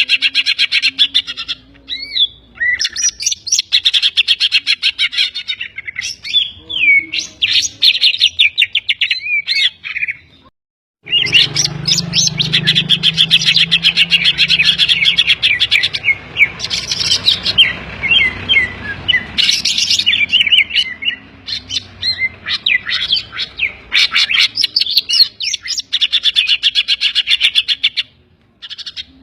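A green leafbird (cucak ijo) singing a fast, high-pitched chattering song of rapid repeated notes and short gliding whistles, laced with mimicked phrases of other birds. The song breaks off briefly about ten seconds in. For several seconds after that a low hum runs under it.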